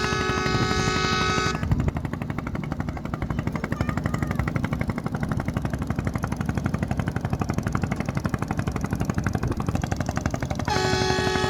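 A ferry's engine running with a rapid, even throb. A long, steady horn tone sounds until about a second and a half in, breaks off, and starts again near the end.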